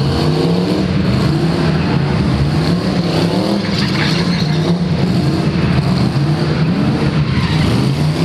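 Rat rod sedan's engine revving hard while the car spins donuts, the engine note rising and falling over and over, with tyre noise from the wheels spinning on the concrete.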